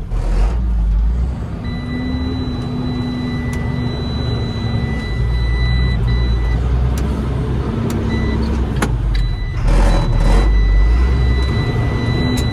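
Water truck's engine running steadily, with a thin, steady high-pitched tone starting about two seconds in and continuing alongside it.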